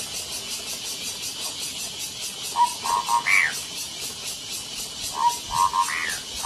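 An animal call phrase repeated twice, about two and a half seconds apart: a short note, a quick stutter of pulses, then a higher note that rises and falls. Under it runs a steady, evenly pulsing high chirring.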